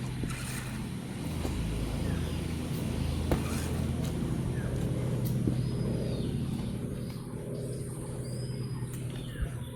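A steady low motor hum, with a few sharp clicks and faint short high chirps over it.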